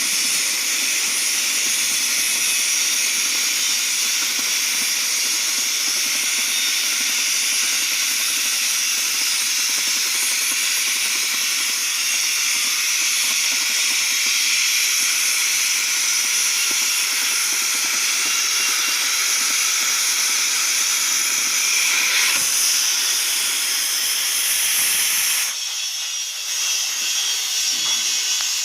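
CNC cutting torch hissing steadily as it cuts thick mild steel plate. The hiss changes about three-quarters of the way through, dropping briefly in level and losing some of its highest part.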